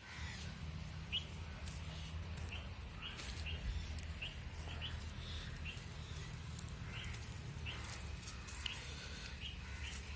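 Small birds chirping: short high chirps repeated every half second or so, over a steady low rumble.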